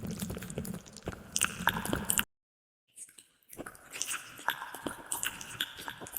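Close-miked ASMR mouth sounds with echo added: a dense, irregular run of wet mouth clicks and smacks, broken by about a second of dead silence a little past two seconds in, then resuming.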